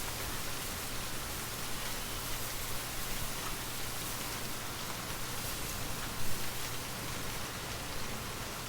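Steady hiss of gentle rain with a light wind, with a brief low rumble about six seconds in.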